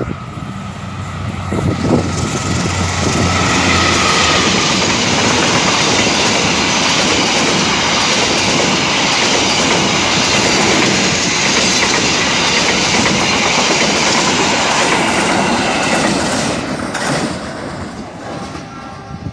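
Diesel-hauled passenger train passing close by. The locomotive's engine runs as it draws near, then the wheels of the coaches clatter steadily on the rails for about fifteen seconds. The noise fades near the end as the train moves away.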